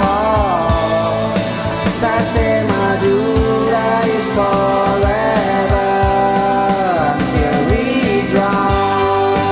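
Pop-rock song playing, with a steady drum beat under a held, gliding lead melody line.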